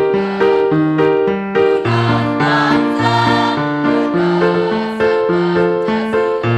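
Keyboard accompaniment to a school march, playing sustained chords over a walking bass line that changes notes on a steady beat. Faint singing voices show up around the middle.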